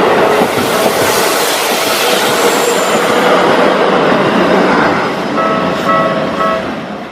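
Keikyu electric train passing through a level crossing: a loud, steady rush of wheels and running gear on the rails that dies away over the last two seconds. As it fades, the crossing's warning bell rings through at about three strikes a second.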